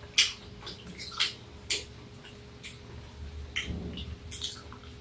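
Wet, uneven clicks and smacks of a person biting and chewing kernels off a grilled corn cob, about eight sharp clicks spaced irregularly.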